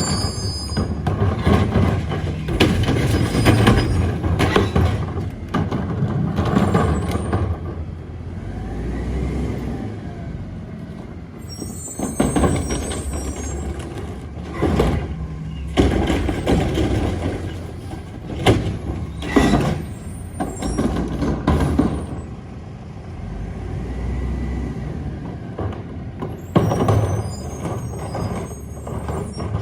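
Mack MRU garbage truck with a McNeilus rear-load body running, its diesel engine rumbling steadily. High brake squeals and air-brake hisses come about twelve seconds in and near the end, with several sharp clanks in between.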